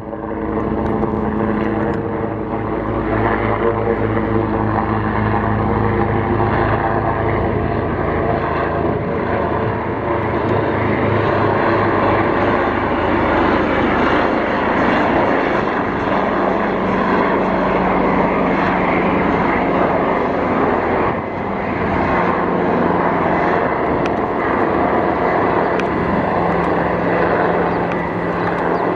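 AgustaWestland AW189 twin-turbine helicopter flying over, a loud steady rotor and turbine sound. Its low tone drops a little partway through.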